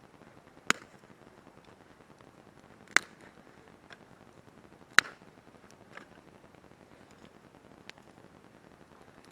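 Wood campfire crackling: sharp pops from the burning firewood, three loud ones spread over the stretch and a few fainter ones between them, over a faint steady hiss.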